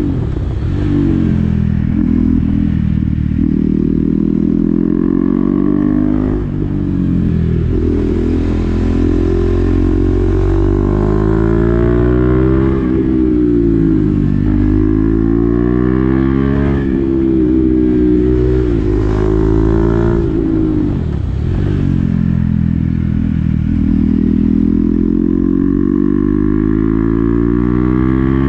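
KTM Duke 390's single-cylinder engine through an SC-Project exhaust with the dB-killer fitted, under way: the engine note climbs in pitch and drops again and again as the bike accelerates and backs off.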